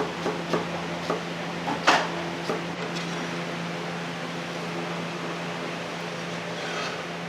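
Steady hum of a ventilation fan. A few short clinks and knocks, like dishes or utensils, sound in the first three seconds, the sharpest about two seconds in.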